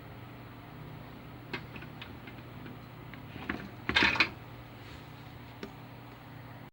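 A few light clicks, then a brief clatter of hard objects being handled about four seconds in, over a steady low hum.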